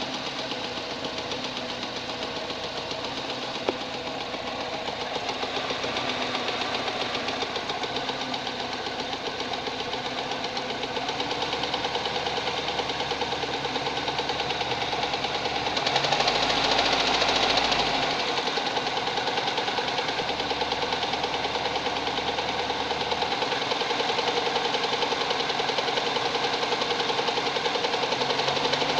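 VAZ 2108's 1.3-litre carburetted four-cylinder engine running with a fast, steady knock from the fourth-cylinder piston, whose skirt has broken apart. The engine gets louder for about two seconds past the middle.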